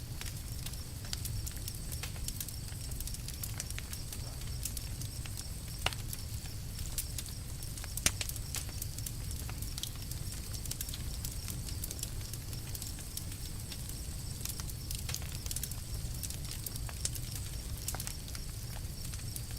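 Campfire crackling: scattered small pops and snaps over a steady low rumble, with two louder snaps about six and eight seconds in.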